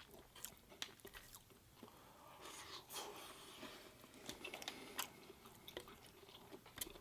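A person chewing food close to the microphone, faint, with scattered small wet clicks and soft mouth noises.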